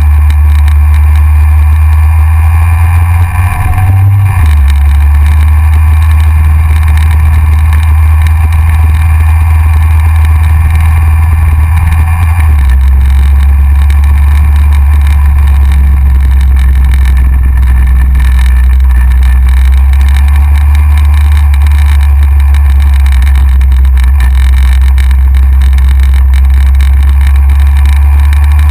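Yamaha XJR's air-cooled inline-four engine running steadily under way, heard from the front of the motorcycle. The engine note briefly rises and then settles lower about four seconds in, and steps lower again about twelve seconds in.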